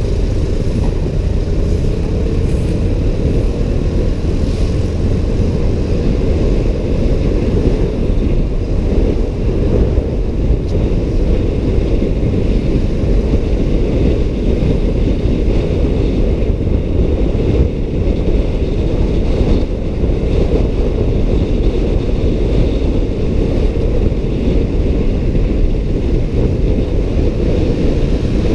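Steady low rumble of wind buffeting the microphone mixed with motorbike and road noise while riding.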